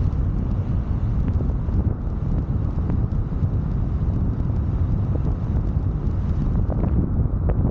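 Wind buffeting the microphone of a camera mounted on a moving car, with the steady rumble of the car's tyres and engine underneath.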